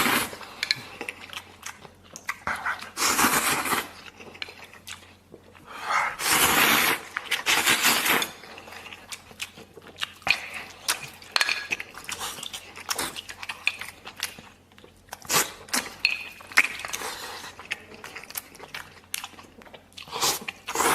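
A person eating instant noodles and meat close to the microphone: a few long, loud slurps of noodles, with wet chewing and smacking in between.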